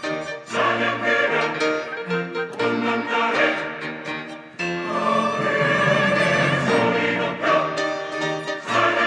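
Church choir singing an anthem with instrumental accompaniment, swelling to a fuller, louder passage about five seconds in.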